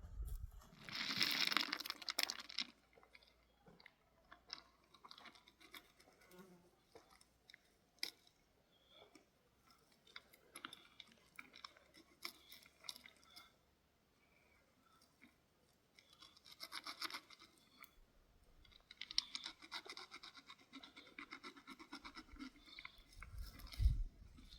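Intermittent scratchy rustling and crunching, in bouts about a second in, around the middle, and through the last few seconds, with scattered small clicks between them.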